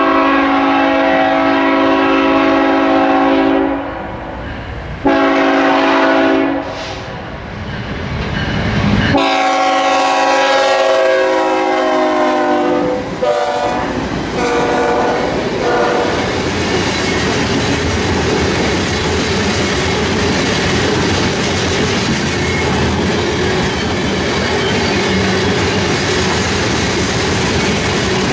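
Freight locomotive's multi-note air horn sounds three blasts: a long one, a shorter one, then another long one ending about halfway through. Then comes the steady rumble and clatter of a long train of tank cars rolling past on the rails.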